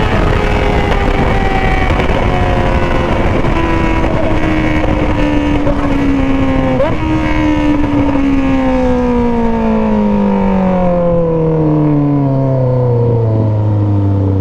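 Motorcycle engine with a 3-inch aftermarket exhaust, its pitch falling steadily as the bike slows down, with a short blip of the throttle about seven seconds in and settling to a low steady note near the end. A rushing noise runs underneath.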